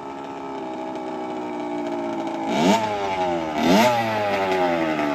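Dirt bike engine running, blipped twice: two quick revs that rise sharply and fall back to a steady note.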